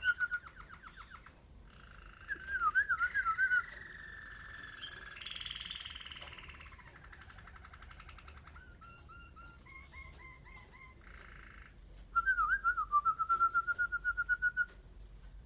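Whistled trills to a pet canary, twice, with softer bird chirps and warbling in between.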